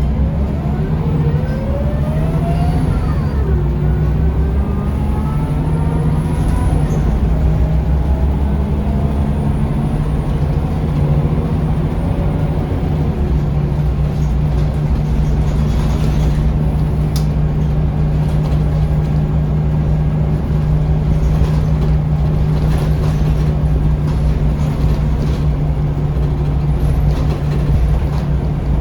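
Scania L94UB city bus heard from on board: its diesel engine and drivetrain pick up speed, the pitch rising several times over the first dozen seconds, then run steadily at cruising speed with road noise.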